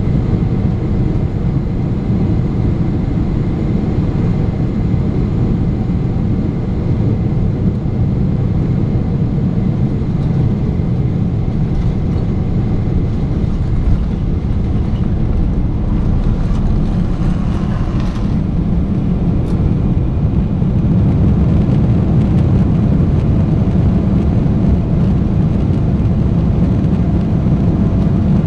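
Steady low rumble inside the cabin of a Boeing 777-300ER: its GE90 engines and airflow, heard around landing. It grows slightly louder about two-thirds of the way in.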